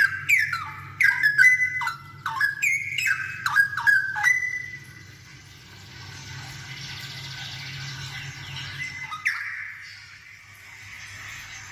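Straw-headed bulbul (cucak rowo) singing: a loud run of quick, rich whistled notes that slide up and down for about four seconds, then quieter, with one more short note a little after nine seconds.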